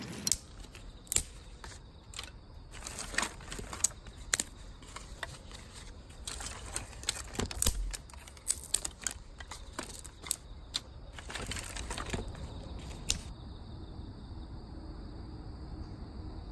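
Irregular clicks, taps and light rustling of objects being handled, stopping about thirteen seconds in.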